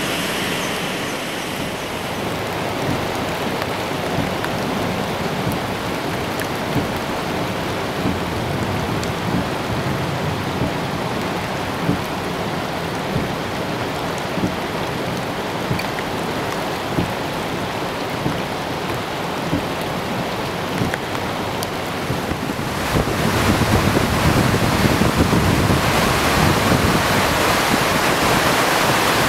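Steady rush of rainstorm and flash-flood water, with wind noise on the microphone. It grows louder and fuller about three-quarters of the way through.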